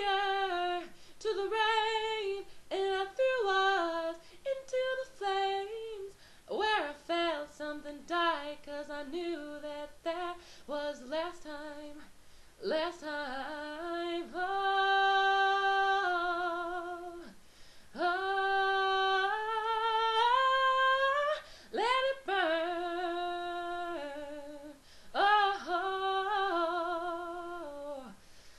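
A woman singing unaccompanied, in phrases with several long held notes that waver in vibrato.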